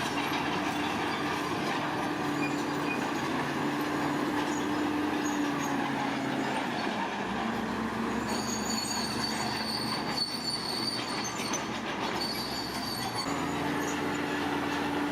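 Bulldozer working: its diesel engine running under a steady squealing and grinding from its steel crawler tracks, with a held squeal that drops slightly in pitch around the middle and a high whine in the second half.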